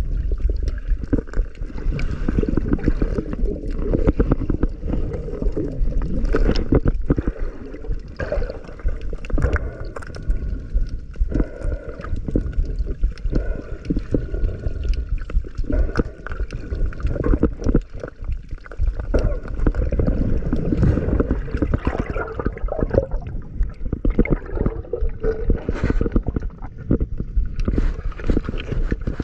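Muffled sea water sloshing and gurgling around a diver's camera, dense and continuous, with many scattered small clicks and knocks.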